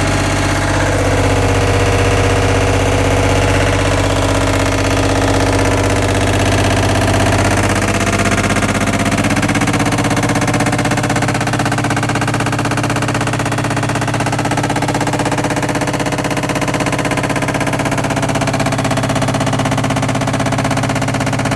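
All-in-one washer dryer combo in its spin cycle, very loud: a steady motor and drum hum under a fast, continuous rattle, the pitch of the hum changing about nine seconds in as the drum speed shifts. The racket comes only during the spin cycle, the fault the owner is recording.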